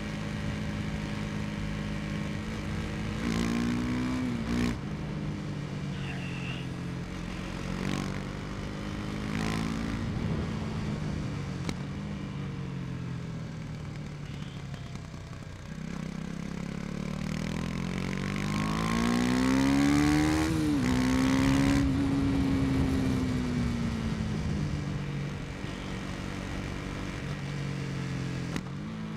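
KTM 250 Duke's single-cylinder engine pulling the bike along, revving up through the gears: the pitch climbs and drops at quick shifts about three to five seconds in, then makes a long climb, shifts, and slowly falls as the rider eases off.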